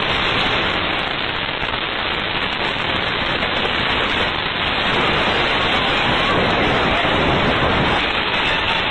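Loud, steady static-like hiss that cuts in abruptly and holds level, with no distinct events.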